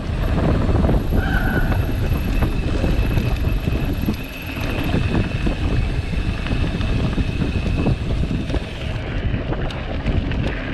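Wind buffeting the microphone of a moving mountain bike, with the bike rattling and knocking over rough ground. A thin steady high whine runs through the middle.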